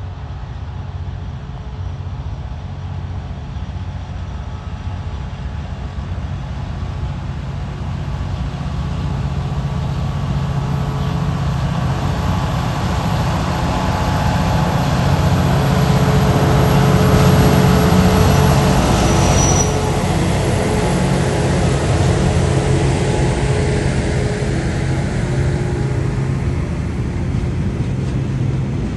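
Two TasRail TR-class diesel-electric freight locomotives approach and pass, their engines droning steadily and growing louder to a peak about two-thirds of the way through, then staying strong as the train rolls on.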